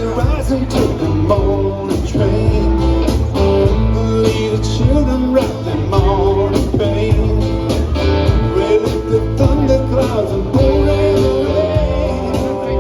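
Live band music: strummed guitars, bass guitar and hand percussion playing a steady beat.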